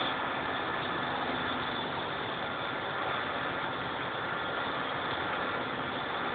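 Heavy vehicle engines running steadily at idle, a constant hum with no sudden changes.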